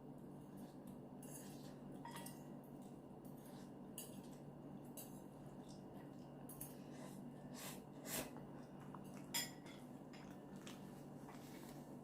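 Utensil clinking and scraping against a bowl while eating noodles, in many small clicks with two sharper clinks about eight and nine seconds in, over a faint steady hum.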